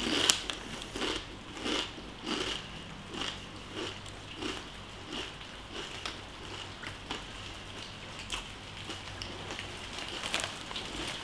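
Close-up chewing of crunchy hand-cooked potato crisps: a crunch roughly every two-thirds of a second, growing softer after about five seconds as the mouthful breaks down.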